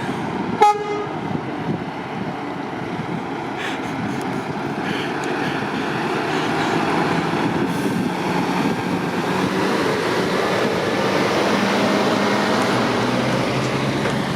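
A brief horn toot near the start, then a steady rush of motorway traffic, lorries included, that grows louder towards a peak near the end and then eases a little.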